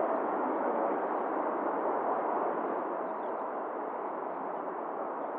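Steady hiss of an airband radio receiver between air traffic control transmissions, even and unbroken.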